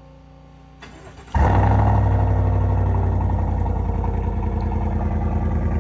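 A 2020 Chevy Silverado Trail Boss's 5.3 L V8 cranking for about half a second, then catching and running pretty loud through an MBRP muffler-bypass pipe in place of the muffler, easing slightly as it settles toward idle.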